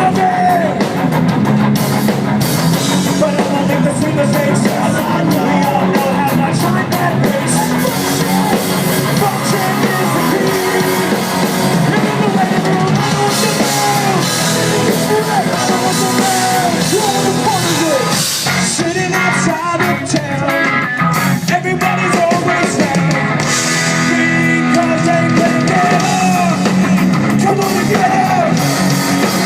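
Live rock band playing loud: a singer over electric guitars, bass and a drum kit.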